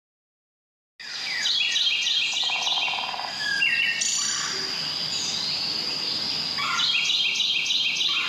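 Small birds chirping and singing in repeated quick chirp phrases, coming in about a second in after a moment of silence.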